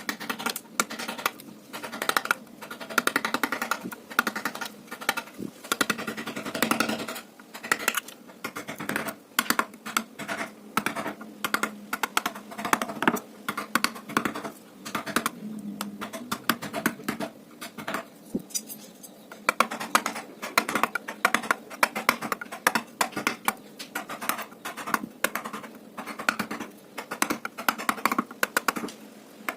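Wood-carving chisel working into teak by hand: many quick, irregular sharp taps and cuts, several a second.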